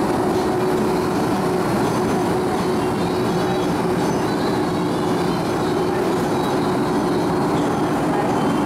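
Refurbished MTR East Rail MLR electric train running steadily, heard from inside a carriage: a continuous rumble of wheels on rail with a steady hum held at one pitch.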